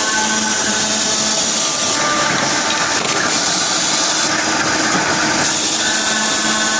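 LYJ 70 high-speed circular saw machine running and sawing through pipe: a loud, continuous rasping noise with a steady whine, changing in tone for a few seconds in the middle.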